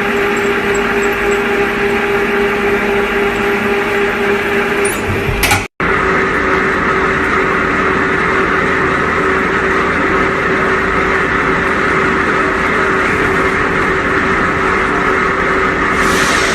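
Horizontal multi-spindle drilling machine running steadily under power, with a steady whine from its spindle drive. A short loud rattle comes about five and a half seconds in, just before a brief dropout, and a high hiss joins near the end.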